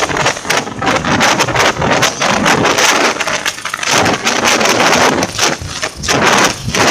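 Passenger train carriage running, heard from the open vestibule between cars: a loud, continuous metallic rattling and clattering, with wind buffeting the microphone.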